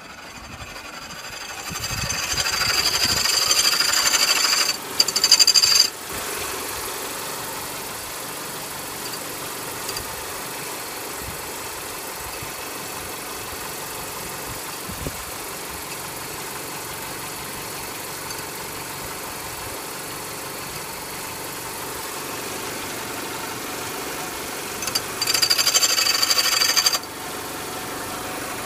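2003 Mitsubishi Galant's 2.4-litre inline-four idling steadily, revved up near the start (two blips about a second apart) and revved again briefly near the end.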